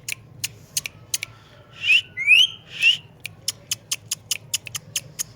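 Parrot giving three short rising whistles about two to three seconds in, among repeated sharp clicks.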